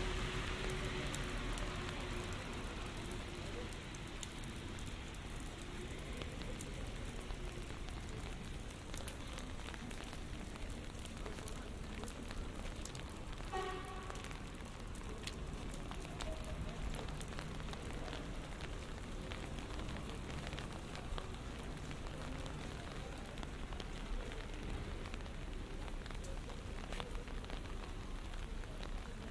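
Steady rain falling on a city street, with many small ticks of individual drops landing close to the microphone. A vehicle's sound fades away in the first few seconds.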